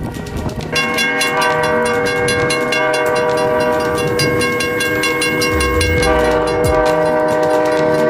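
Train horn sounding a long, held chord of several notes, starting about a second in, over the clatter of rail wheels.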